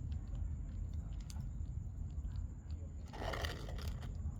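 Kittens eating, with small crunching, chewing clicks scattered throughout and a louder rustling noise lasting about a second, a little after three seconds in. A steady low hum underlies it.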